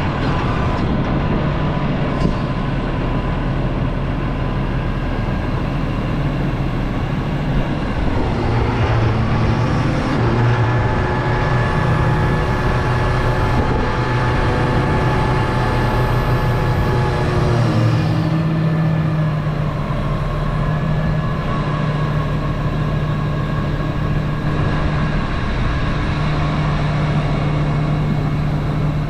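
A large diesel engine running steadily, its pitch dropping about a third of the way in and rising again about two-thirds of the way through as the load changes.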